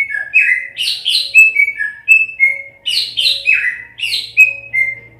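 Greater green leafbird (cucak ijo) singing a loud, rapid song of sharp whistled notes that each slide downward, in cascading phrases that repeat every second or two.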